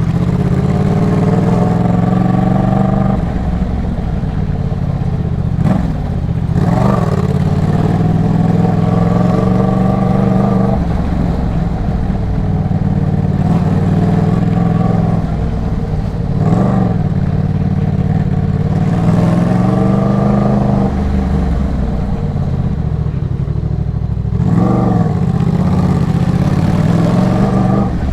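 Yamaha MT-07's 689 cc parallel-twin engine running through an aftermarket Arashi exhaust on the move. The engine note climbs and falls repeatedly as the throttle is opened and closed through the gears.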